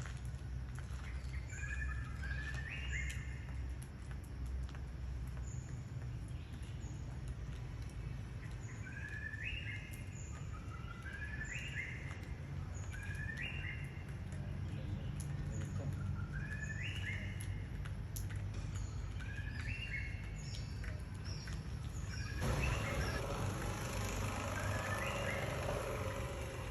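A songbird repeating a short, stepped, rising phrase every second or two over a steady low rumble. About 22 seconds in, a loud rushing hiss comes in suddenly and runs on.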